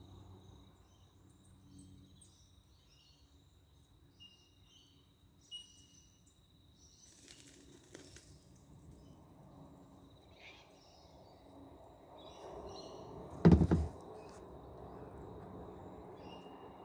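Small birds chirping in short, scattered calls over a thin, steady high tone, with one sharp knock about two-thirds of the way through and a soft rushing noise rising toward the end.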